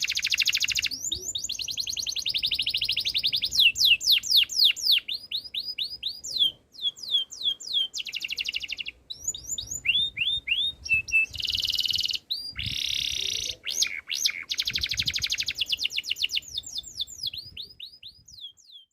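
Domestic canary singing: runs of quick, high, falling chirps alternating with rapid buzzing rolls, broken by a few short pauses.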